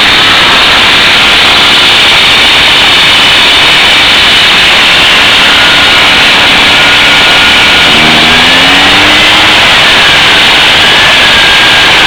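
Echo two-stroke backpack leaf blower running loud and steady just after starting on full choke from slightly warm, with a brief rise in pitch about eight seconds in.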